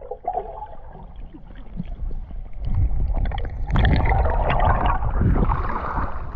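Water churning and bubbling around swimmers diving underwater, a noisy rumble with scattered clicks that grows louder about three seconds in.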